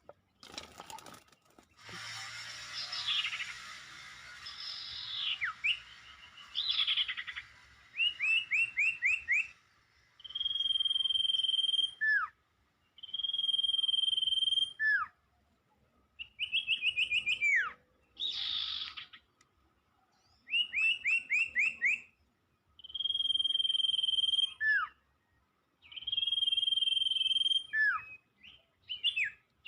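Songbird song of the kind Indonesian bird trappers call sirtu or sirpu, used as a lure call: phrases repeat every two to three seconds, alternating a quick run of short chirps with a held high whistle that ends in a quick falling note. The first few seconds hold a burst of noise and scattered chirps before the song settles into this pattern.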